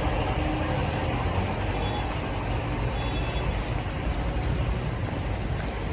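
Steady city street traffic noise with a low rumble of vehicle engines, and two faint short beeps about a second apart near the middle.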